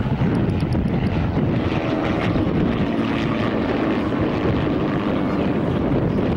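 Cessna L-19 Bird Dog light aircraft flying its display, a steady propeller-driven piston engine drone.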